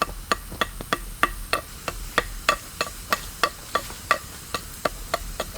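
Knife chopping in a fast, even run of sharp blows, about three to four a second, each with a brief ring.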